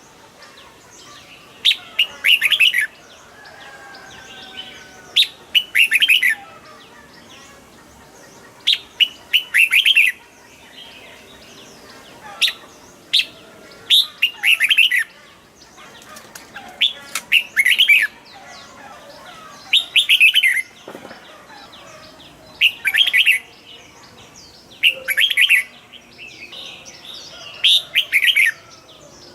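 Red-whiskered bulbul singing short, bubbly phrases over and over, one about every one and a half to two seconds.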